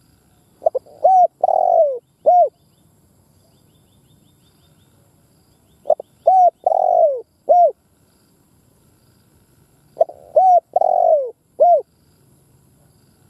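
Spotted dove cooing: three song phrases about four to five seconds apart. Each phrase is a short first note, a quick coo, a longer falling coo and a short closing coo.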